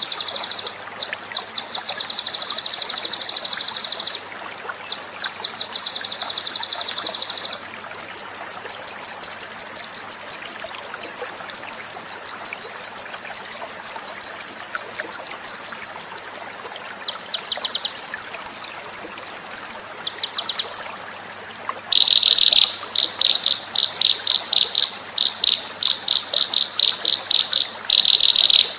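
Songbird training recording (masteran): a string of high-pitched buzzy chirps and rapid, evenly pulsed trills, some bird-like and some insect-like. An even pulsed trill runs for about eight seconds in the middle, followed by sharp repeated chirps near the end.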